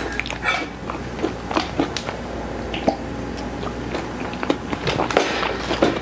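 Close-miked chewing and biting of fast food, a run of irregular small clicks and crackles as the food is chewed.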